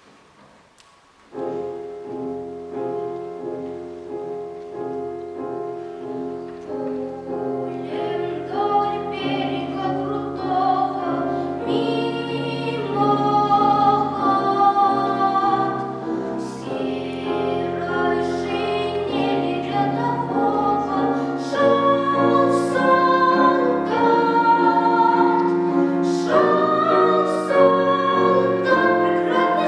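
A piano introduction starts about a second and a half in, and about eight seconds in a child's classically trained solo voice comes in, singing with vibrato over the piano accompaniment.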